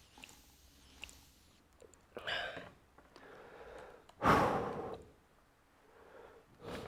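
A person breathing out audibly: a short breath about two seconds in, a louder sigh about four seconds in that fades over most of a second, and a shorter breath near the end.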